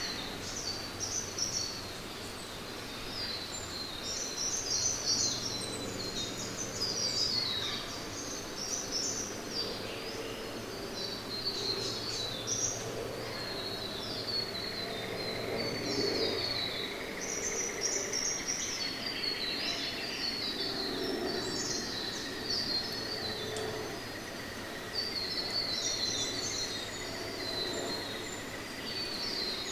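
Rainforest birds chirping and twittering without a break in quick, high phrases. A thin, steady high tone joins about halfway through, alongside a faint steady low hum.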